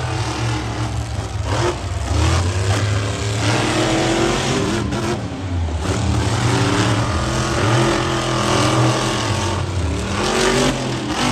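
Monster truck engines revving hard, the pitch climbing and dropping again and again as the throttle is worked.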